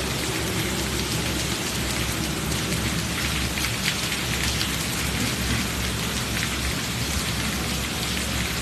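Heavy rain pouring down and splashing on the pavement, a steady, unbroken hiss.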